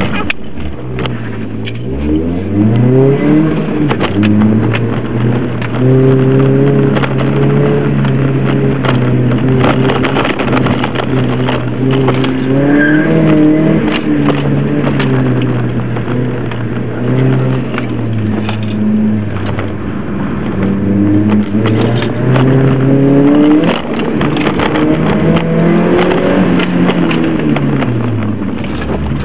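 2002 Nissan Sentra SE-R Spec V's 2.5-litre four-cylinder engine heard from inside the cabin on an autocross run. It revs up hard in the first few seconds, then holds a fairly steady pitch with repeated dips and climbs as the throttle is lifted and reapplied, and drops away near the end.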